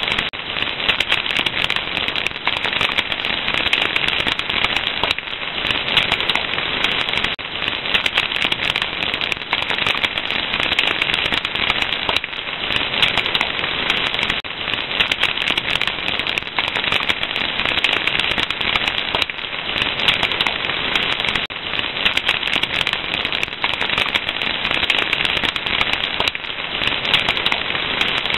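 Wood fire crackling steadily: a dense, unbroken run of small pops and snaps over a soft hiss.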